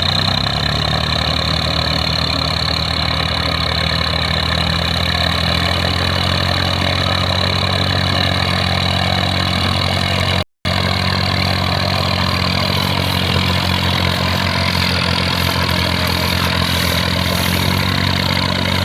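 Massey Ferguson 35 tractor engine running steadily at idle, with a steady high whine over it. The sound cuts out for a split second about halfway through.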